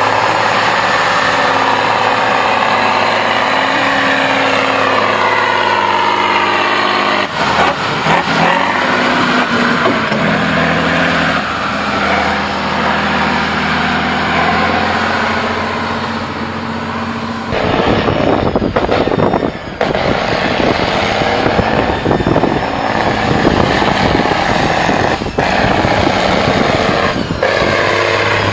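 Motors of radio-controlled model trucks whining, the pitch rising and falling with the throttle; about two-thirds of the way through, a rougher, noisier rattle of driving takes over.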